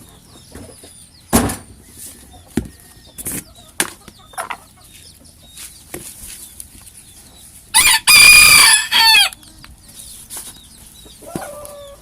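A bantam rooster crows once, loudly, about eight seconds in, amid soft clucking and calls from bantam hens and chicks and a few scattered knocks.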